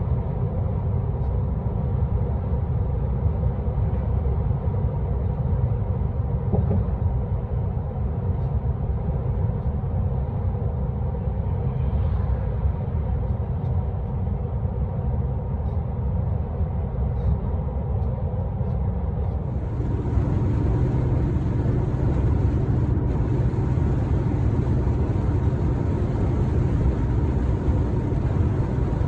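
Truck running down the road: steady engine and road rumble heard from the cab. About two-thirds of the way in the sound turns a little louder with a brighter hiss added.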